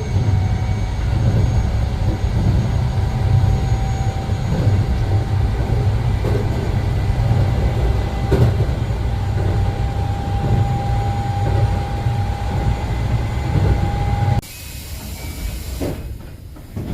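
Keio line train running at steady speed: a heavy low rumble with a steady humming tone over it, which cuts off abruptly about fourteen seconds in, leaving a quieter hiss.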